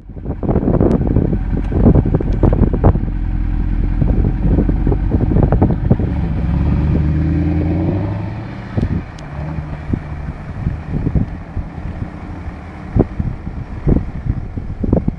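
Mercedes-Benz SLS AMG's naturally aspirated 6.2-litre V8 accelerating hard, its engine note climbing in pitch. About eight seconds in it drops back to a quieter, lower running note, with sharp cracks scattered throughout.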